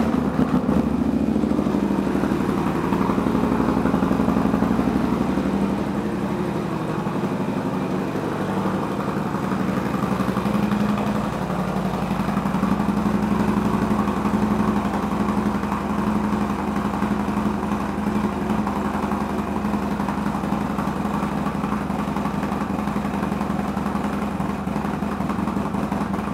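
Harley-Davidson Road Glide's Milwaukee-Eight V-twin running steadily through a two-into-one exhaust, with a rapid even pulse and only slight rises and falls in level.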